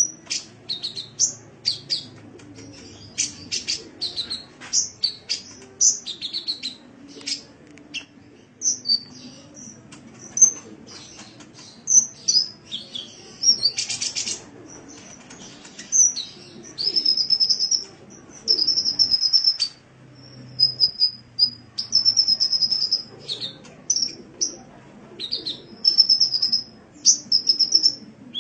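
Sunbird song: a fast string of sharp, high chirps and twitters, turning about halfway through into repeated rapid trills of about a second each.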